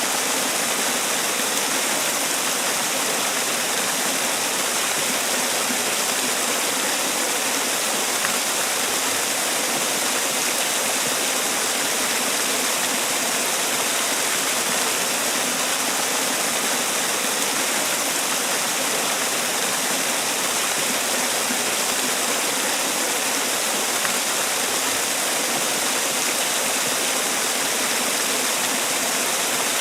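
Man-made waterfall: water falling and splashing in a steady, unchanging rush.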